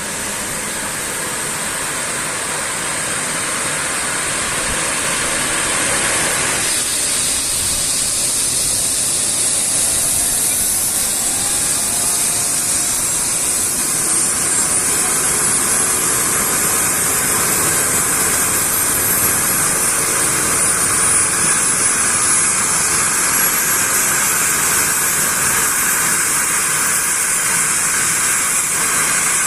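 Trauma helicopter's turbine engines and rotor running at close range, a steady loud rushing with a thin high whine that rises in pitch as it spools up, the noise swelling over the first several seconds.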